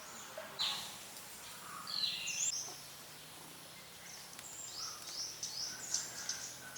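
Birds calling: short, sharp chirps and quick downward-sweeping whistles, coming in small clusters about half a second in, around two seconds in, and again through the last couple of seconds, over a faint steady outdoor background.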